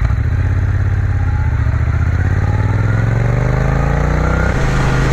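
Triumph Bonneville T120 parallel-twin engine accelerating, its pitch rising steadily for about four and a half seconds, then dropping suddenly near the end as it shifts up a gear.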